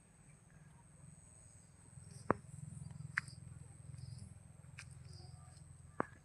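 Faint outdoor ambience: a steady high-pitched insect buzz over a low hum, broken by four sharp clicks.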